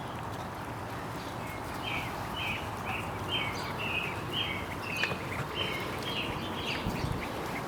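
A bird chirping repeatedly, short chirps at about two a second starting a couple of seconds in, over a steady background hiss.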